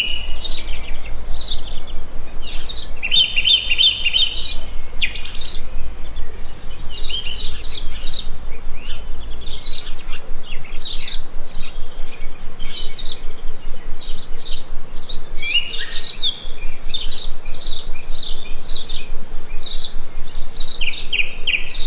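A chorus of many small birds chirping and calling at once: short, high, overlapping chirps and quick trilled runs of repeated notes, with no break.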